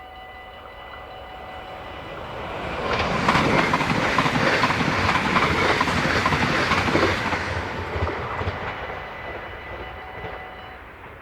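A train passing over a Dutch level crossing: it rises in about two seconds, rattles through with a rapid clatter of wheels over rail joints for four or five seconds, then fades away. The crossing's warning bell rings as a steady tone before the train arrives and again as it fades.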